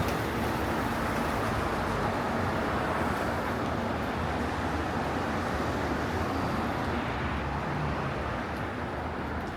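City street traffic: a steady rush of passing vehicle noise that slowly fades toward the end.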